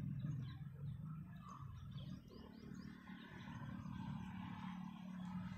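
Faint outdoor ambience: a few quick bird chirps in the first half, over a low steady hum.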